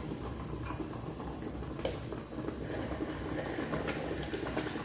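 A spoon stirring a pot of peanut broth on the stove, with a few faint light scrapes or knocks over a low steady background hum.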